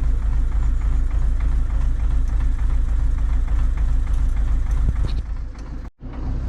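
Diesel engine of an MTZ-80 Belarus tractor running steadily at idle, with a brief gap near the end.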